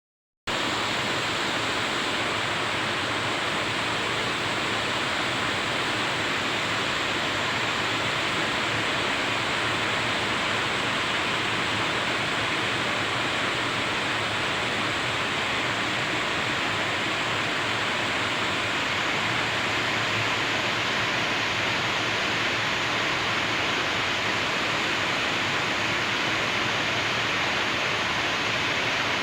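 Steady rain, an even hiss with no separate drops, thunder or changes, starting about half a second in.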